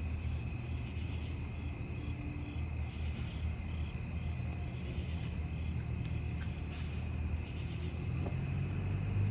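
Crickets chirring steadily over the low rumble of a wood campfire, with a faint crackle about seven seconds in; the rumble swells near the end.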